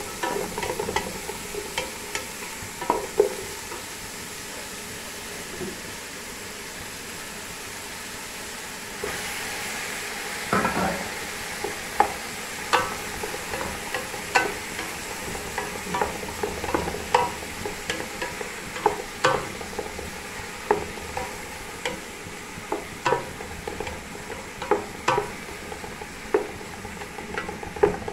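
Chopped onions and tomatoes frying in oil in a pot with a steady sizzle, stirred by a utensil that scrapes and knocks against the pot. The sizzle grows louder about a third of the way through, and after that the knocks come roughly once a second.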